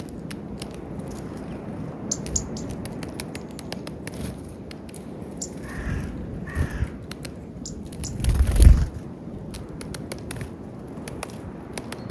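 Birds feeding on peanuts in snow: two short harsh calls about six seconds in, with scattered sharp ticks throughout. A brief low rumble about eight seconds in is the loudest sound.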